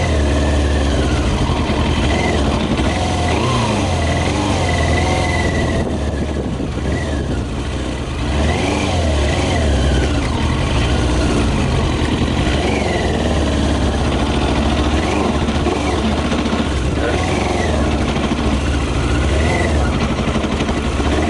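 Yamaha YZF600R's inline-four engine running on 40% whisky in place of petrol as the bike is ridden, the revs rising and falling again and again. The engine keeps running but has no power.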